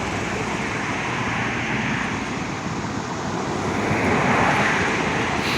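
Steady outdoor rushing noise, swelling a little about four seconds in.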